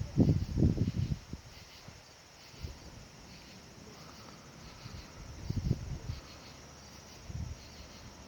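Crickets chirping steadily in a high, continuous band. A few low, dull noises break through, the loudest in the first second and others about five and a half and seven seconds in.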